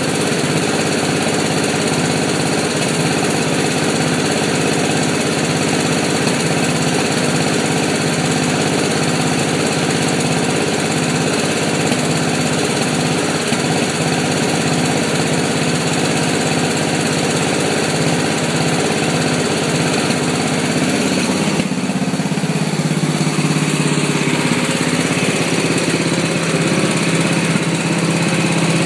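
Lawn mower engine running with an uneven, misfiring beat. About three quarters of the way through, its sound changes and settles into a steadier lower tone.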